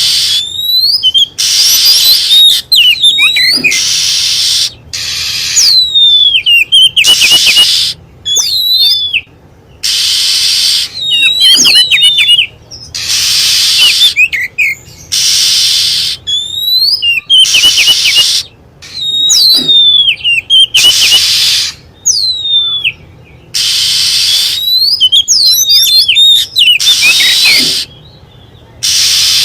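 Oriental magpie-robin singing: a varied run of quick whistled notes that slide up and down, alternating with harsh, hissing notes about a second long, repeated over and over.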